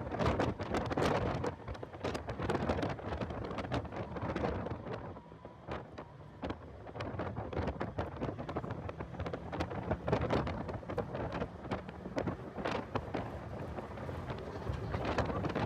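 Heavy wind buffeting on the microphone of a car at track speed, full of crackles over a low rumble of the car running. The level dips briefly about five seconds in and then builds again.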